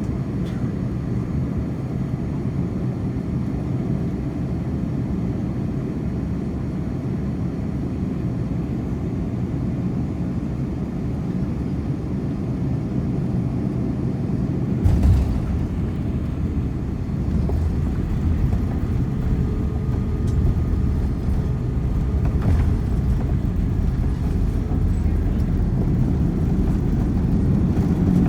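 Airbus A330-300 airliner cabin noise: a steady low engine and airflow rumble, broken about halfway through by a sudden thump, likely the touchdown. After the thump the rumble gets deeper and grows louder toward the end, as on the landing roll.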